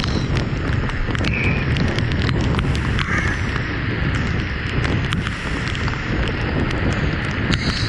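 Steady morning rain falling, with scattered drops ticking sharply, and wind rumbling on the microphone.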